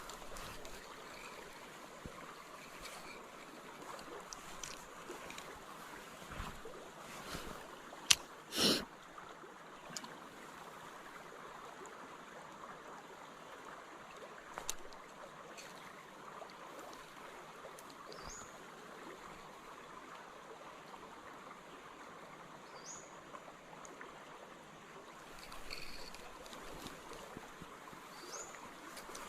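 A creek flowing steadily, with a sharp click and a short louder knock about eight seconds in, and three brief high chirps in the second half.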